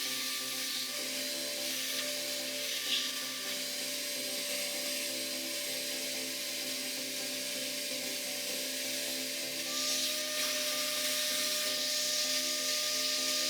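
A small power tool's motor running steadily with a constant whine. From about ten seconds in it is joined by a louder rushing hiss.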